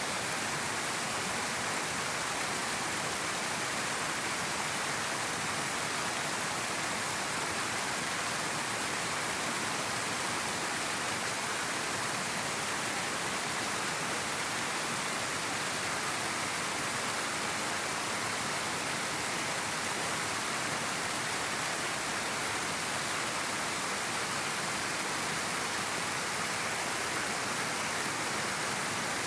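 River water flowing, a steady, unbroken rushing noise.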